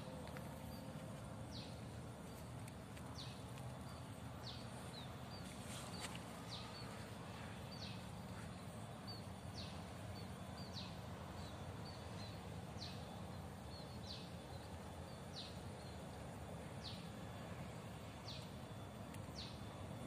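A wild bird repeating a short, high, falling note about every second and a half, over a steady outdoor background hiss.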